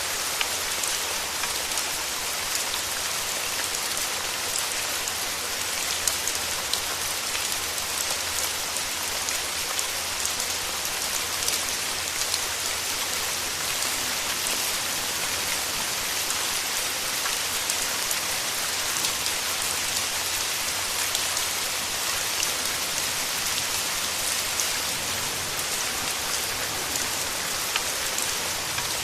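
Steady rain with a dense patter of individual drops ticking close by, unchanging throughout.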